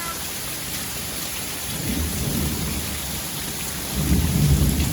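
Steady rain falling, with low rolls of thunder rumbling about two seconds in and again, louder, near the end.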